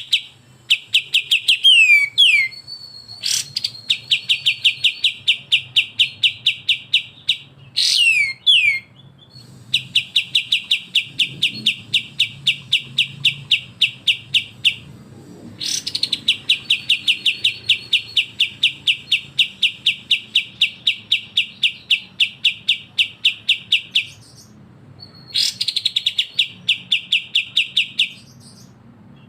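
Bulbul song from a cage-bird training recording: long runs of rapid, evenly repeated chattering notes, about seven a second, each run lasting several seconds with short breaks, and a couple of quick falling whistled notes between runs. This is the 'besetan' stuttering burst song of kapas tembak or cucak jenggot.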